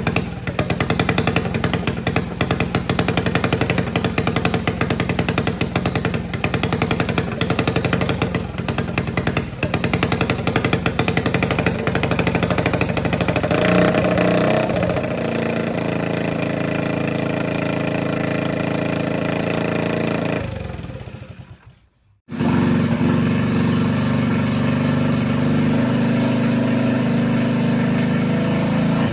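A top fuel mini bike's engine running with a rough, rapid firing clatter, changing about 14 seconds in to a steadier, even note. It fades out about 21 seconds in, drops away for a moment, then runs steadily again.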